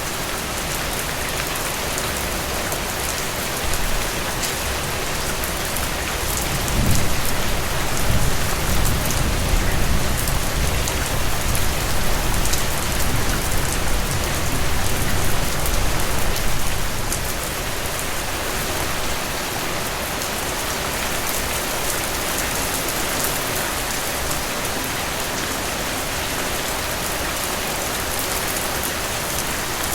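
Steady rain falling on a cabin roof, with a long low rumble of thunder rising about seven seconds in and fading away over about ten seconds.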